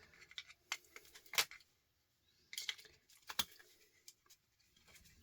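Scattered light clicks and taps of small plastic and metal parts being handled while an electrical plug or transformer is taken apart, with a slightly sharper tap about a second and a half in.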